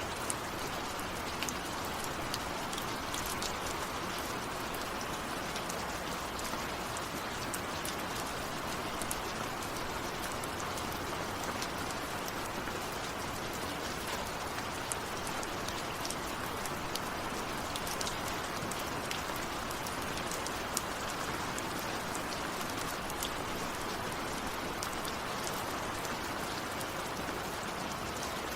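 Steady rain falling, a constant hiss with many small, distinct drop hits on a surface, and no thunder.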